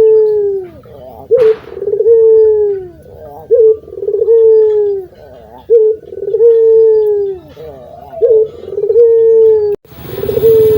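Puter (Barbary dove) cooing over and over: each phrase is a short note followed by a long, falling coo, repeated about every two seconds.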